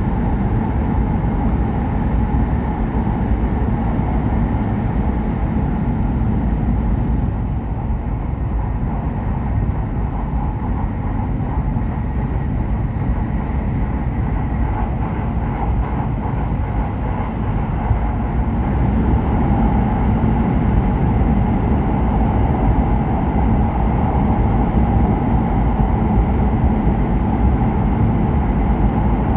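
Cabin noise of an E7/W7-series Hokuriku Shinkansen train running: a steady low rumble that eases a little partway through and builds again in the second half.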